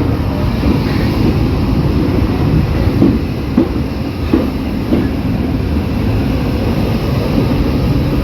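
A railway passenger carriage running along the track: a steady rumble of wheels on rails, with a few short knocks about three to five seconds in.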